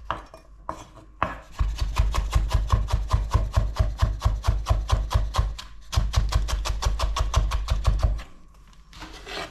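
Kitchen knife chopping potatoes into julienne strips on a wooden cutting board: quick, even cuts, about five a second, each knocking on the board, with a brief pause about six seconds in.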